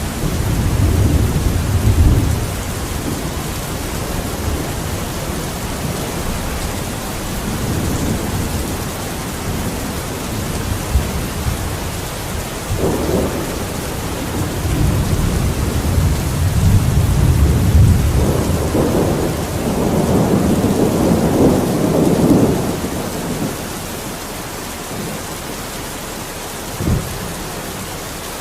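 Steady rain falling, with slow low rumbles that swell and fade, strongest in the first couple of seconds and again from about the middle to two-thirds of the way through. A single short knock sounds near the end.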